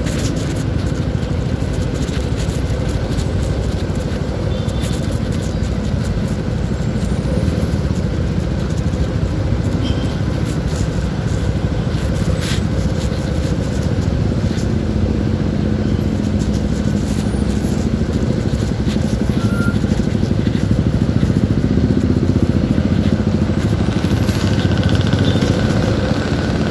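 CFMoto 300SR motorcycle being ridden: steady wind rush over the microphone with the single-cylinder engine running underneath, its note rising a little in the second half.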